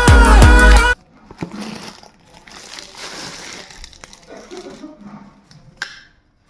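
Background music with a beat cuts off abruptly about a second in. It is followed by faint rustling and handling noises from unpacking a parcel, with one sharp click near the end.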